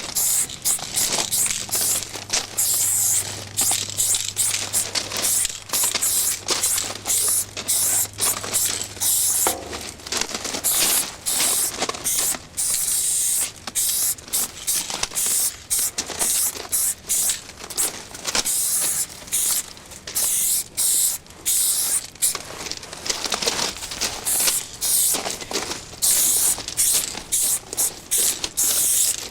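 Aerosol spray paint cans spraying in many short and longer hissing bursts, stopping and starting as the paint is laid on.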